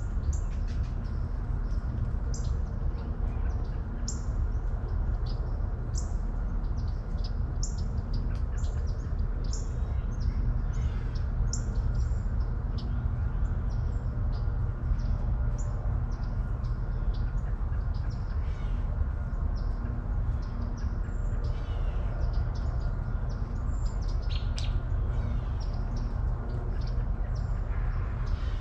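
Birds chirping and calling, many short chirps throughout, over a steady low rumble.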